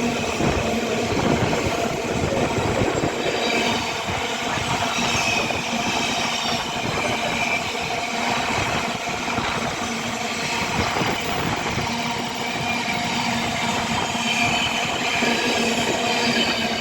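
A train passing through the station: a steady rolling rumble with many irregular low knocks of wheels over the rail, and faint high-pitched tones above.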